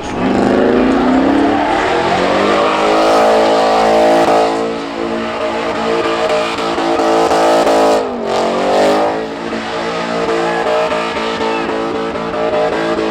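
Pickup truck engine running hard in an enduro race. The revs climb over the first few seconds and hold, drop sharply about eight seconds in, then climb back and hold.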